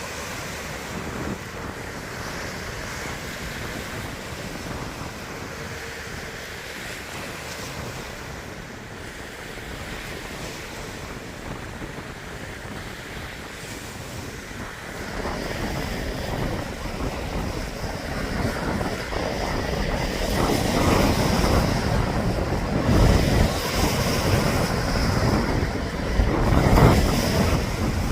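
Lake Superior waves crashing against the shore in a continuous wash, with wind buffeting the microphone. The surf grows louder and heavier about halfway through, with strong surges near the end.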